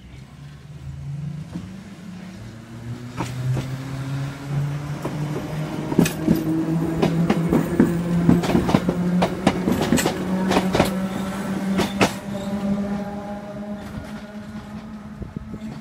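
1938 tube stock electric train pulling away and passing close by: the traction motors give a pitched drone that rises slowly as the train picks up speed. A run of sharp clacks from the wheels on the track comes as the cars go past, loudest in the middle, and the sound fades as the train moves away.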